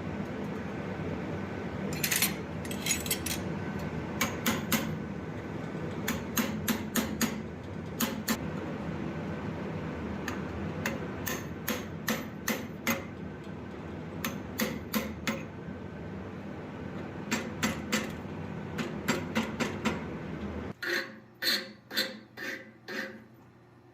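Blacksmith's hammer striking steel on an anvil in short groups of three to five ringing blows, the shaping of a forged dragon head. A steady background rush runs under the strikes and stops suddenly near the end, leaving a few last blows in quiet.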